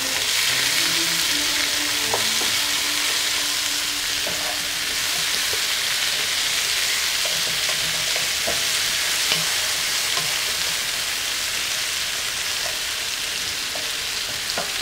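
Sliced zucchini sizzling steadily as it fries in a pan, turned with a wooden spoon that gives a few light scrapes and taps against the pan.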